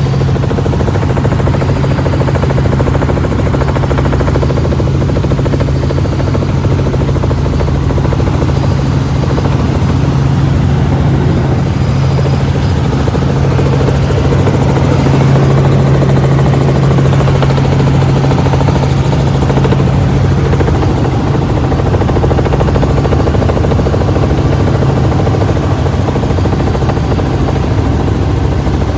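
Helicopter in flight, heard from inside the cabin: a steady, loud drone of rotor and engine with a strong low hum that holds unchanged throughout.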